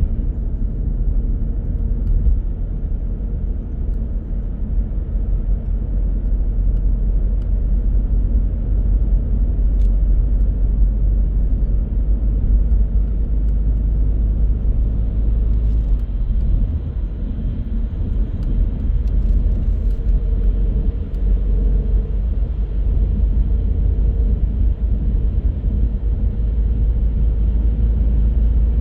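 Steady low rumble of a car on the move: tyre and engine noise, heaviest in the deep bass.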